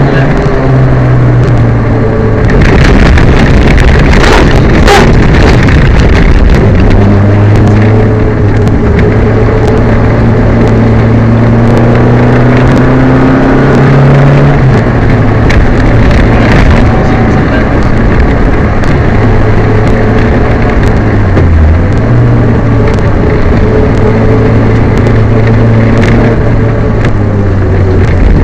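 Peugeot 205 rally car's engine running hard through a stage, its note holding steady then stepping lower with gear changes, while the car has a misfire. Sharp knocks and clatters come through over the engine.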